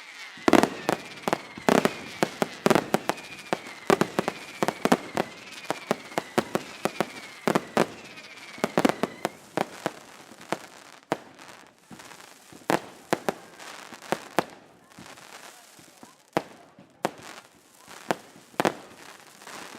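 Daytime fireworks display: a rapid series of sharp bangs from exploding shells, with several falling whistles overlapping them over the first half. The bangs then come more sparsely.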